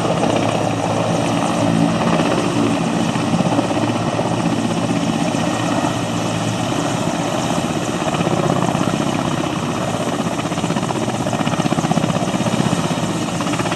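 Helicopter running at a steady loud level, its rotor beating rapidly over a low engine drone.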